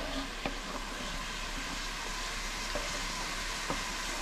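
Chopped onion and carrot sizzling steadily as they fry in hot coconut oil, with a few light clicks of a knife against a wooden cutting board.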